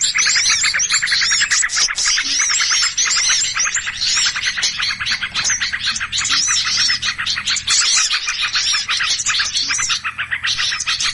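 Noisy chorus of many small birds chirping and calling over one another, dense rapid chirps mixed with repeated arched whistled notes. This is a bird-lure (pikat) recording of agitated small birds, played to draw other small birds in.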